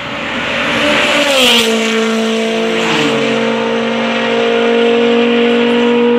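Supercharged Honda Civic Si passing fast: its engine note drops in pitch as it goes by, about a second in, with a rush of noise. The engine then holds a steady note for several seconds.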